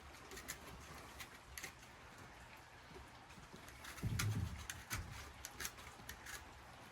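A single low coo, like a pigeon's, about four seconds in, over scattered faint ticks and taps.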